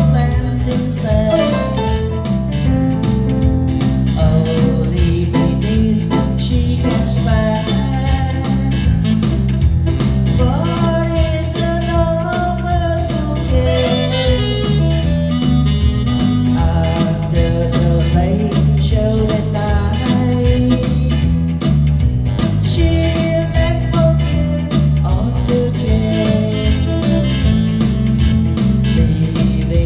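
A song sung with instrumental accompaniment: a vocal melody over guitar and a steady, repeating bass beat.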